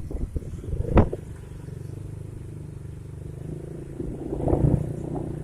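A motor vehicle engine running steadily, with a sharp knock about a second in; the engine gets a little louder about four and a half seconds in.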